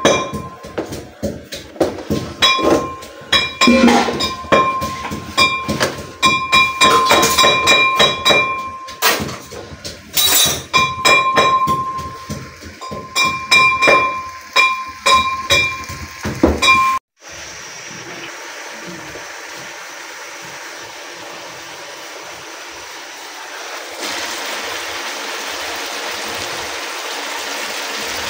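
Chicken pieces and onions frying in a wok, stirred with a wooden spatula: rapid knocks and scrapes against the pan for the first part, then a sudden change to a steady sizzle that gets louder near the end.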